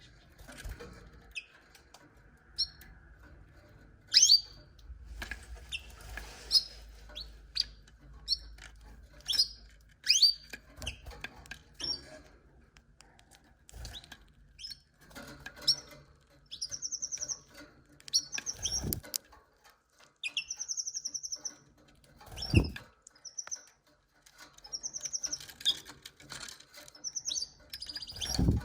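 Domestic canaries chirping: many short high calls, then fast trilled phrases in the second half. Three dull low thumps come in the second half.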